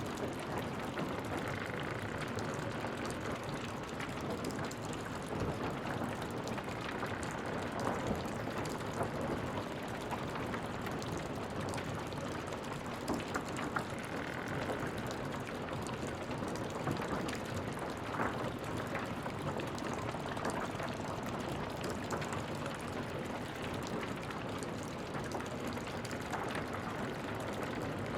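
Wood fire burning in a fireplace: a steady crackling hiss with scattered sharp pops, and a faint brief whistle now and then.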